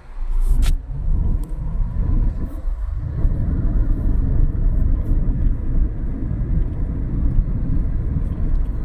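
Diesel vehicle engine coming to life near the start and then running steadily. The sound is a loud, even low-pitched noise with a sharp click a little under a second in.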